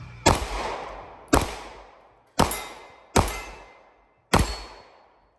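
Five handgun shots fired at an uneven pace, about a second apart, each followed by a long echoing decay: the first string of a five-shots, reload, five-shots drill.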